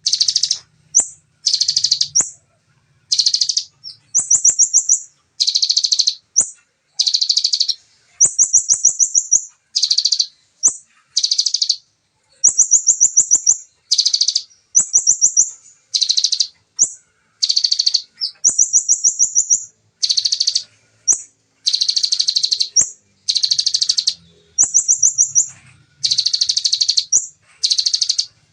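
A kolibri ninja sunbird singing nonstop: fast, dense bursts of rapid chatter copied from the ciblek (bar-winged prinia), each lasting up to about a second and a half, alternating with short high trills, with barely a gap between them.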